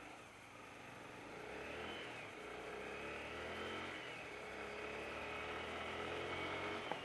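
Honda CB300R single-cylinder motorcycle engine pulling away, its pitch rising, dropping briefly at about two seconds and again at four as it shifts up, then running steady at speed. A short click near the end.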